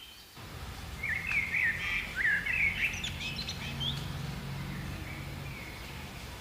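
Birds chirping: a run of quick, twittering calls in the first half that fade out a little past the middle, over a steady low hum.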